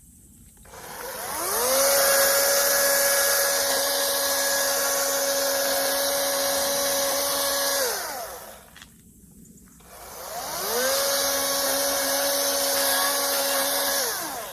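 Toro chainsaw run twice. Each time it spins up to a steady high whine, holds it, then winds down. The first run lasts about six seconds and the second about three.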